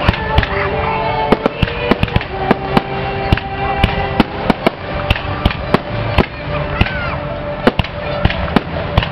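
Aerial firework shells bursting in quick succession, sharp bangs about two or three a second.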